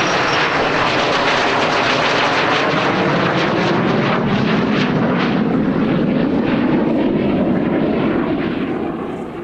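A-4N Skyhawk's single turbojet engine, loud as the jet makes its display pass, with the noise dying away near the end.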